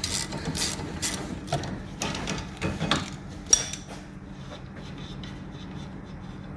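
Hand tools clicking and knocking on metal suspension parts, a handful of separate sharp clicks with the loudest about three and a half seconds in, then only a steady low background hum.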